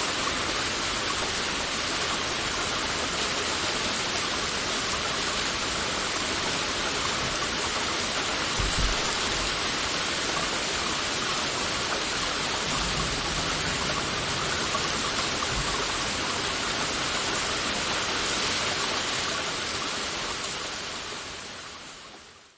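Heavy rain falling steadily: a dense, even hiss of drops, with a few brief low thumps about halfway through. The rain fades out over the last couple of seconds.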